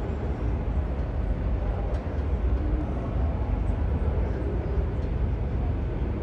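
4x4 military truck motorhome driving, with a steady low rumble of engine and road noise.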